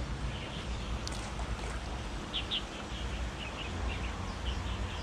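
Small birds chirping in short, high calls: a quick pair about two seconds in and several more near the end, over a steady low rumble.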